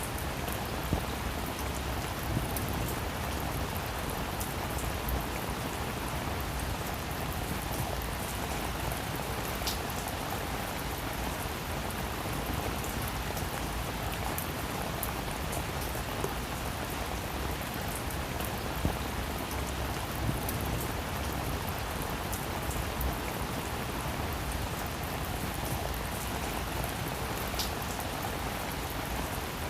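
Heavy rain falling steadily, a dense even hiss with scattered individual drops ticking sharply.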